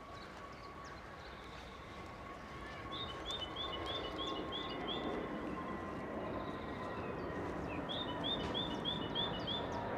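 A songbird singing a short phrase of about seven quick repeated high notes, twice, over steady outdoor background noise.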